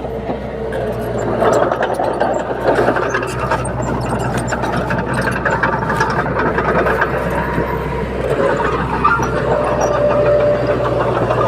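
Bulldozer diesel engine running steadily, with many short, sharp clanks over it.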